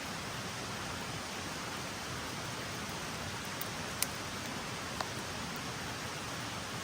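Steady rain falling on the forest, with two sharp ticks about four and five seconds in.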